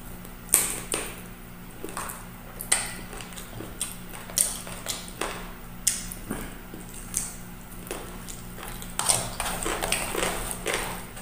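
Close-up eating sounds: chewing and wet lip smacks from someone eating rice and adobo-braised chicken feet by hand, a string of irregular short clicks and smacks. A steady low hum runs underneath.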